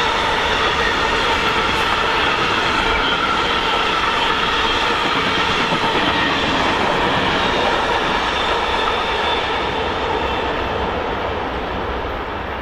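Train passing on the track: steady wheel-and-rail noise with a faint whine, dying away over the last few seconds.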